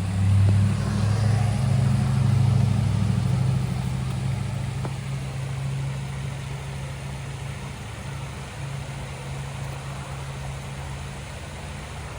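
A motor vehicle's engine: a low, steady hum that is loudest in the first few seconds and then slowly fades away.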